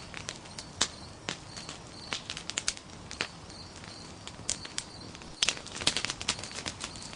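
Nodya log campfire crackling: irregular sharp snaps and pops over a steady hiss, with a denser run of louder snaps about five and a half seconds in.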